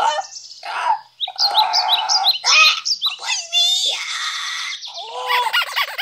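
Bird-like chirping: rapid, varied high whistled calls and short repeated chirps.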